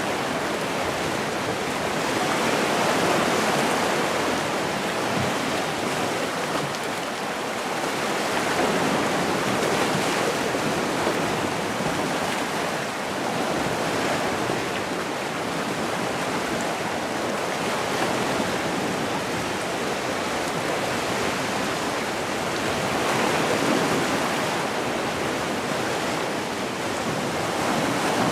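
Gentle sea surf: waves washing in and drawing back as a continuous rushing that swells and eases about every five seconds.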